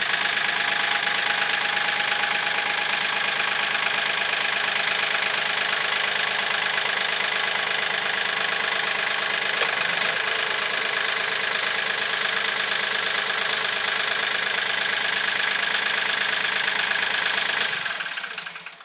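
KIOTI CK3510 tractor's three-cylinder diesel engine idling steadily, then shut off near the end and winding down over about a second. It is run briefly after an oil change so that the new oil filter fills with oil.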